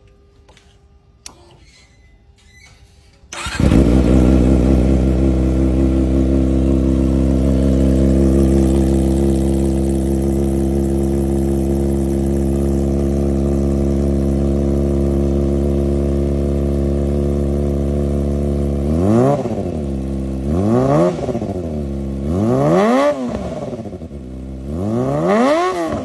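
Kawasaki ZX-25R 250 cc inline-four motorcycle engine through a LeoVince aftermarket exhaust, starting up about three seconds in and idling steadily. Near the end it is revved four times, each blip rising and falling.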